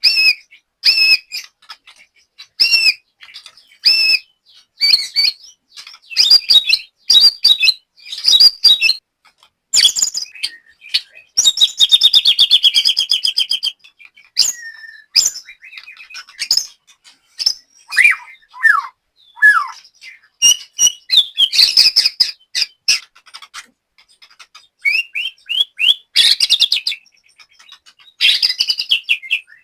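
White-rumped shama (murai batu) singing a loud, varied song: paired whistled notes about once a second at first, a long fast trill about half way through, then falling whistles, with sharp clicking notes between phrases.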